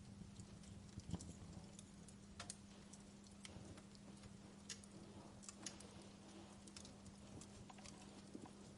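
Faint wood fire crackling in a fireplace, with irregular small pops and snaps over a steady low hum.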